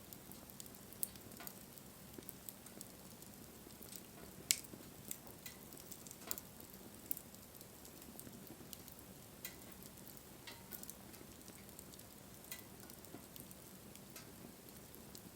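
Wood fire crackling: irregular sharp pops and snaps over a faint low hiss, the loudest pop about four and a half seconds in.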